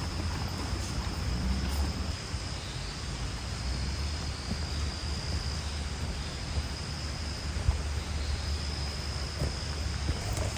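Steady rain falling in a rain forest, with a constant high-pitched insect drone over it.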